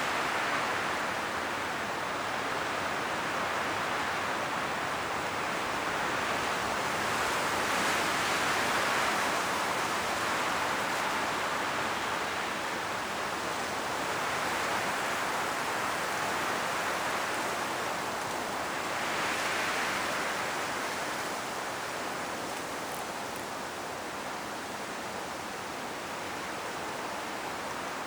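Strong wind blowing through forest trees, the leaves rustling in a steady hiss that swells and eases in gusts every few seconds.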